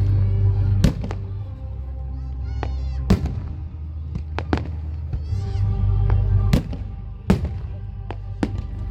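Fireworks bursting: sharp bangs every second or two, some with short whistles, over music with steady held notes and a deep rumble.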